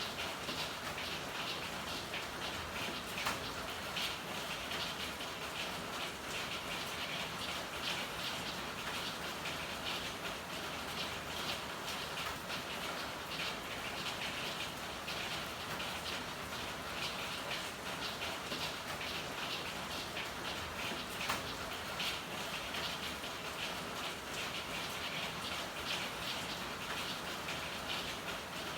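Steady rain falling and pattering on hard surfaces, with a dense patter of individual drops and a couple of sharper drip ticks.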